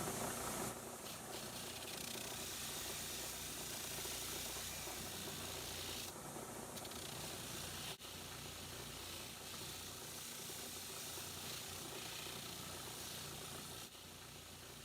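Steady hiss from the heat treating of a steel pipe socket, with a brief dip about eight seconds in.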